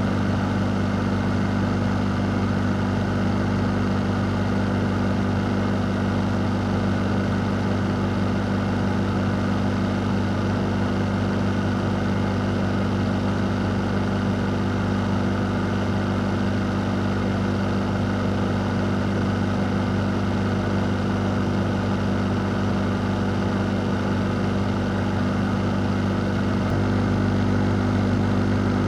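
A fan running steadily: a constant low hum under an even rush of air, with no change in speed.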